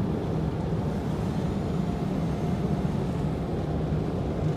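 Hanna automatic car wash machinery running, a steady low rumble and hum heard from inside the car during the pre-soak stage.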